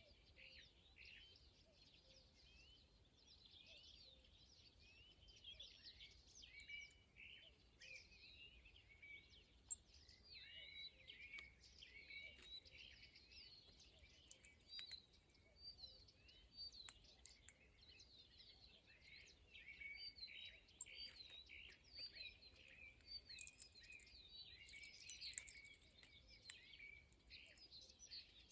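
Many small birds chirping and twittering at once, a faint, continuous busy chatter of short high calls, with a couple of sharp clicks.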